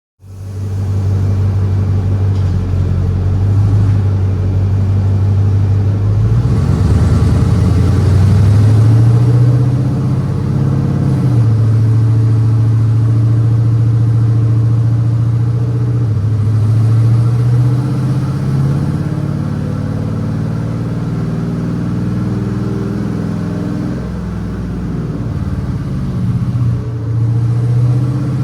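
GMC Sierra 5.3-litre V8 running loud through its headers, its pitch climbing as it accelerates around seven seconds in and again near seventeen seconds, then settling back. The sound starts abruptly at the beginning.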